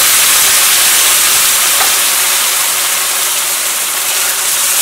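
Ground tomato paste sizzling loudly in hot oil in a wok, a steady hiss that eases slightly toward the end.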